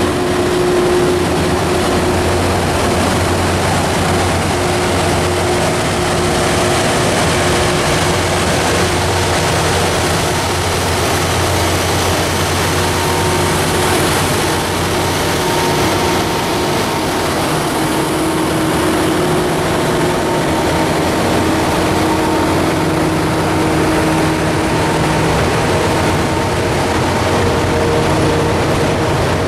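Freight train rolling past: a steady, loud rumble and rattle of wheels on rail, with faint held squealing tones over it.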